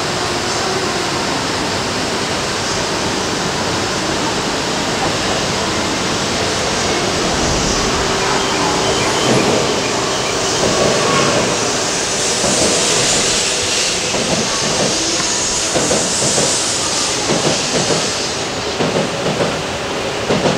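Shinkansen train sound at a station platform: a steady rumble and hiss of a train moving, with a faint steady whine partway through and a few short knocks near the end.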